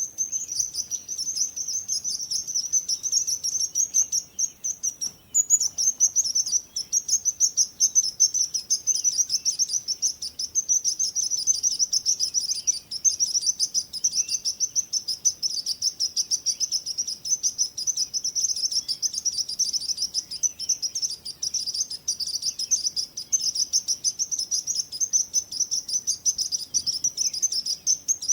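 Birds chirping in a fast, continuous, high-pitched chatter, with a brief lull about five seconds in.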